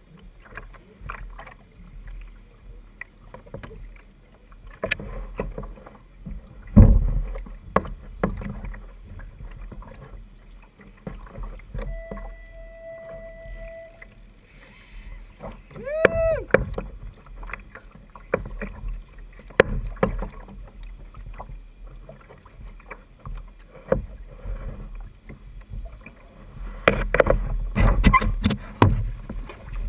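Water sloshing and slapping against a fishing kayak's hull, with scattered knocks and one strong thump. Partway through, a steady tone lasts about two seconds, followed shortly by a brief pitched sound that bends in pitch.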